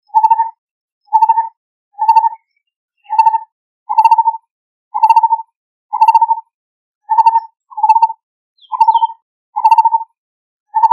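Lineated barbet calling: a steady series of low notes, about one a second, each a short trill, with silence between them.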